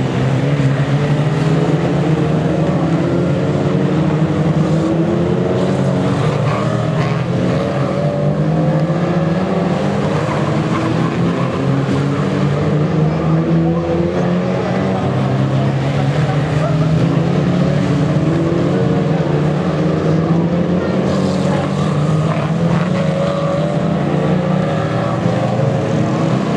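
Engines of several Lightning Rods oval-racing cars running together under racing revs, their overlapping pitches rising and falling as they accelerate and lift.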